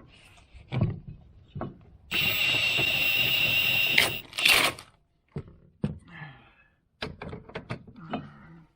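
A power tool runs steadily for about two seconds with a high whine, then gives a second short burst, among clanks and knocks of hand tools and metal parts.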